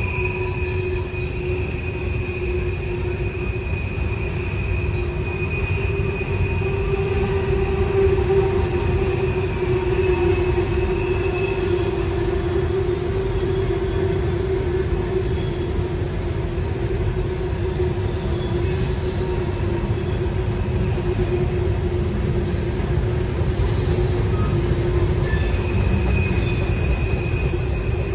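Freight cars of a long Norfolk Southern train rolling past: a steady rumble of steel wheels on rail, with several held squealing pitches, one low and strong and others high. The squeal comes from wheel flanges grinding against the rail on a sharp curve.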